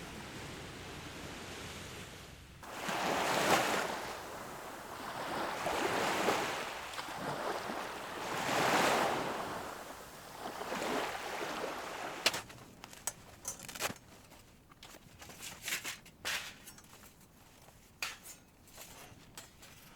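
Sea waves washing onto the shore, four swells a couple of seconds apart. About twelve seconds in they give way to scattered small clicks and knocks.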